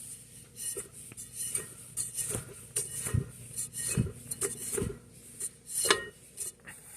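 Irregular metallic clicks and clinks with a few dull knocks from the Modern Fan Company Cirrus ceiling fan's K55-type motor being handled to check its bearings.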